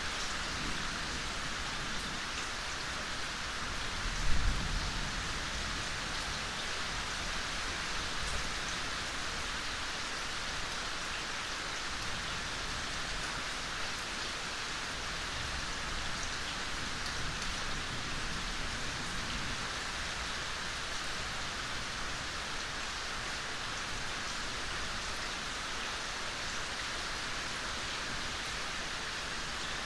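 Gentle rain falling steadily in a forest, an even hiss of many drops. About four seconds in there is a brief low thud, the loudest moment.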